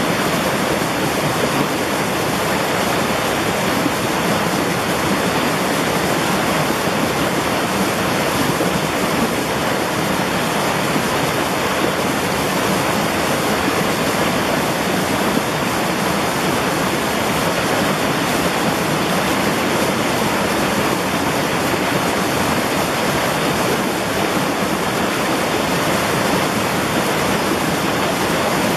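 Mountain valley stream flowing steadily, an even wash of water noise that does not change.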